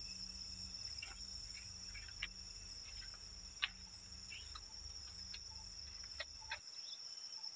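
Crickets and other night insects chirping in a steady, high-pitched chorus, with scattered faint clicks and short chirps. A low background rumble cuts off near the end.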